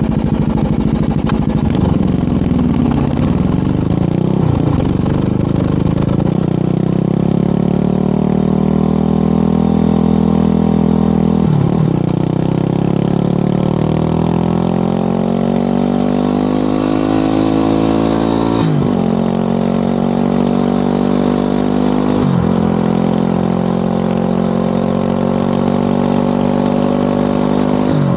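Motorcycle engine and exhaust under way, accelerating through the gears: the pitch climbs steadily, with a brief drop at each upshift, five times.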